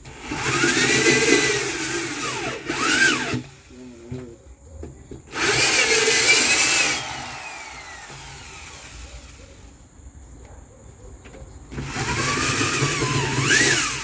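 Electric drill boring holes through a freezer's plastic liner and foam insulation in three bursts, its motor pitch rising and falling with each.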